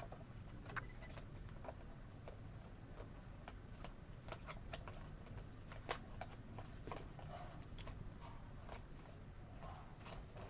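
Faint clicks and flicks of trading cards being handled and sorted by hand, scattered irregularly, over a low steady background hum.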